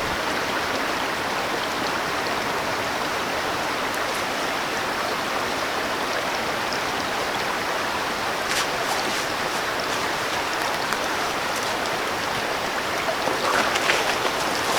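Rain mixed with sleet falling steadily, an even hiss with a few faint ticks.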